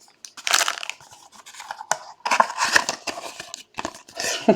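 Trading cards and pack packaging being handled: a run of irregular scraping and rustling strokes, card stock and wrapper sliding and rubbing against each other.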